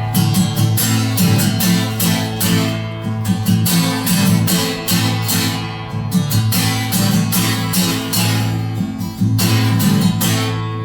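Acoustic guitar strummed in a steady, quick rhythm: an instrumental passage of a bard song between sung lines.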